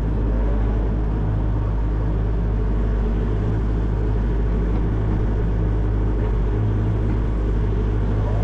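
Hitachi 14-tonne excavator's diesel engine running steadily under work, a constant low drone with an even hum.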